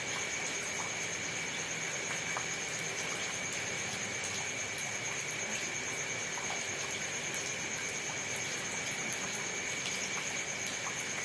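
Steady rain falling, an even hiss with scattered faint drop ticks, and two steady high tones running through it.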